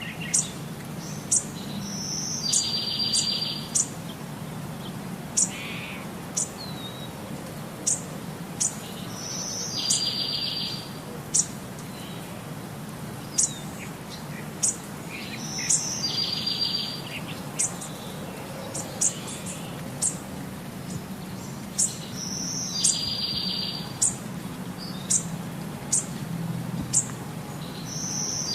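Small birds chirping: sharp high chirps come throughout, and a call made of a short high note and a buzzy trill repeats about every six to seven seconds, over a steady low hum.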